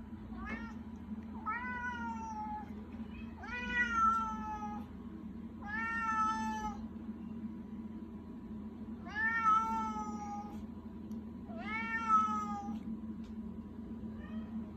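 Domestic cat meowing to beg, about six drawn-out meows a couple of seconds apart, each rising then falling in pitch, over a steady low hum.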